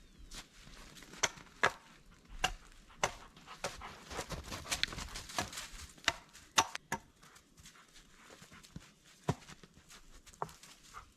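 A series of irregular sharp clicks and knocks, closely bunched in the middle and thinning out toward the end.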